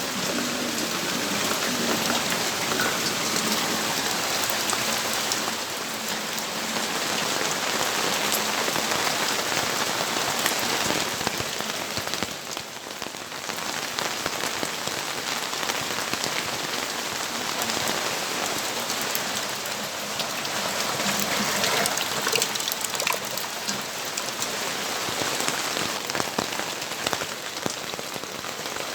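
Steady rainfall, a dense patter of drops hitting surfaces, easing off briefly near the middle.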